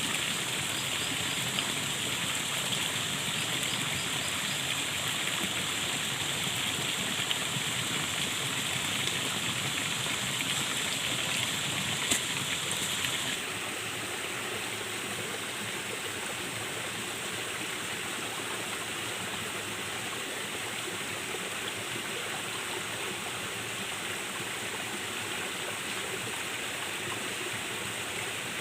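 Stream water running steadily. About halfway through the sound changes abruptly and turns slightly quieter, as at a cut to another stretch of water. There is a single sharp click shortly before that change.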